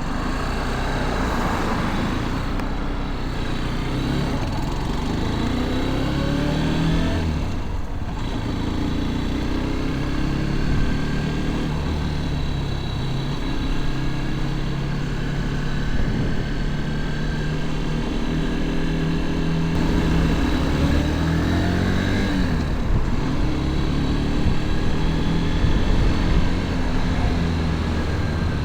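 Motorcycle engine running under way, its pitch rising as it accelerates twice, at about five and about twenty-one seconds in, with a rushing noise underneath.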